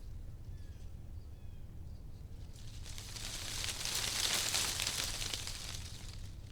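Wind blowing through tree leaves: a rustling gust swells up about halfway through and dies away again, over a steady low wind rumble.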